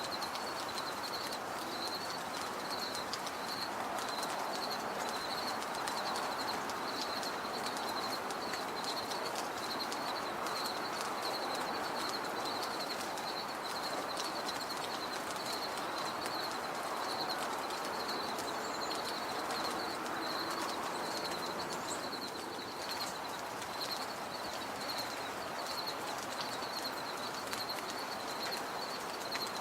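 Outdoor ambience: a steady high-pitched chirping repeated about twice a second, over a constant low rushing background.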